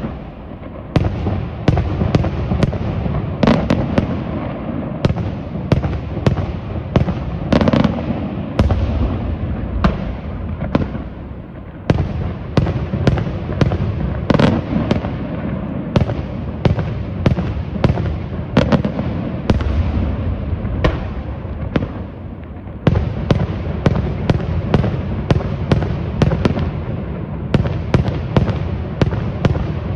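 Daytime fireworks display: rapid, loud bangs in quick succession, several a second at times, over a continuous low rumble, with two brief lulls.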